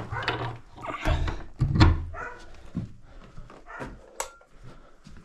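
A string of knocks and thuds from objects being handled and set down in a small room, the loudest a heavy thump a little under two seconds in.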